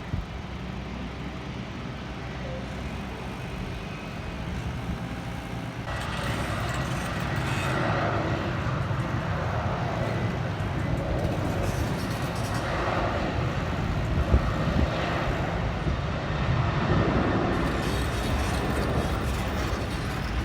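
Steady low engine rumble that grows louder and fuller about six seconds in.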